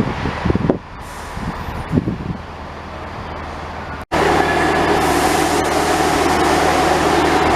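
A train running at a station with a steady engine drone and a few low thumps. About halfway through, an abrupt cut brings in a louder, steady engine note.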